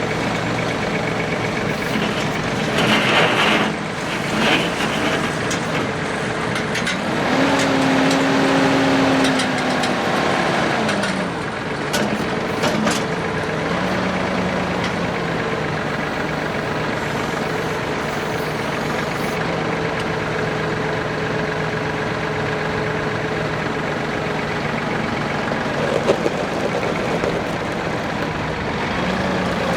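Massey Ferguson 4610M tractor's three-cylinder turbo diesel engine running. It revs up about seven seconds in and settles back down around eleven seconds, with a smaller rise a few seconds later and a brief hiss near the start.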